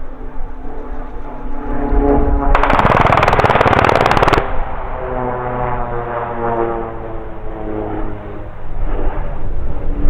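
Pilatus PC-7 turboprop droning overhead, interrupted about two and a half seconds in by a burst of machine-gun fire lasting nearly two seconds, the aircraft firing at a range target. The propeller drone carries on after the burst.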